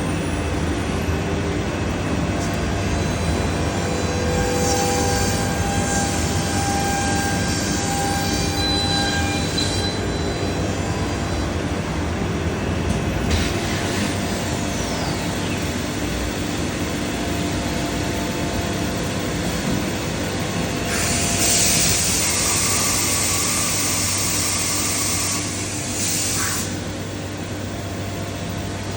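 Biesse Rover K CNC router running: a steady mechanical drone with a few held whining tones that come and go. About two-thirds of the way in, a loud hiss lasts about five seconds.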